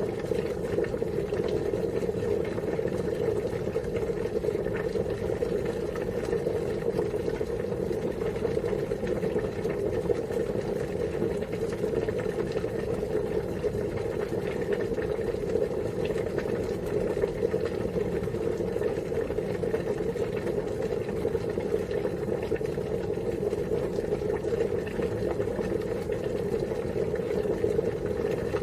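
Water boiling at a steady, rolling boil: a continuous dense bubbling with no change over the stretch.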